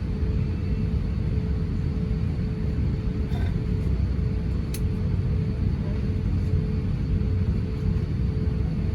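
Steady low rumble of engine and airflow noise inside the cabin of an Airbus A350-900 airliner, with a faint steady hum above it and one sharp click a little under five seconds in.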